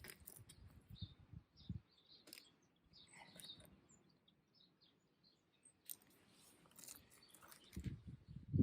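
Faint birds chirping now and then, with a few small clicks and soft low rustles. About a second before the end, a louder low rumbling and rustling begins.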